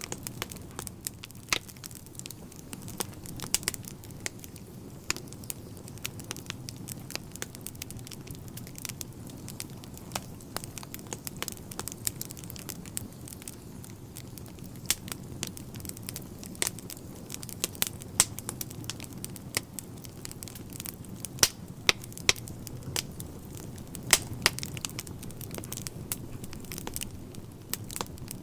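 Wood fire burning in a fireplace, crackling with frequent, irregular sharp pops over a steady low rumble of the flames.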